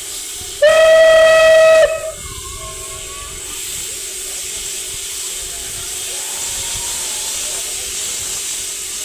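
Steam locomotive's whistle blown once, a steady blast of about a second, over a continuous hiss of escaping steam.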